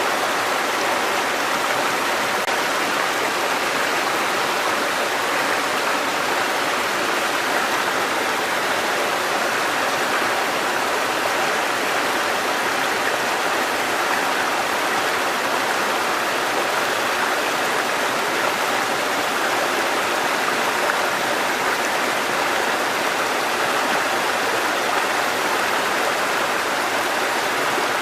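Water cascading over rocks in a mountain stream, a steady, even rush.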